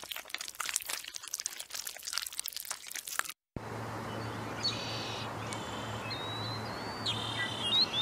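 A dense, irregular crackle of small clicks. After a short gap, a steady outdoor hiss with a low hum, over which small birds give thin, high chirps and a held whistle several times.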